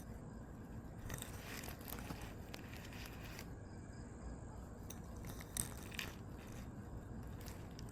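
Irregular rustling and crackling, in several stretches, over a faint steady high insect trill and a low rumble.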